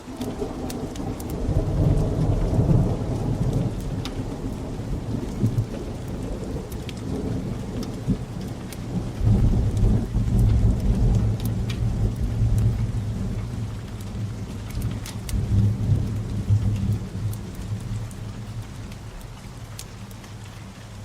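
Steady rain with rolling thunder. A deep rumble swells about two seconds in, comes back louder for several seconds in the middle, rises once more, and dies away near the end.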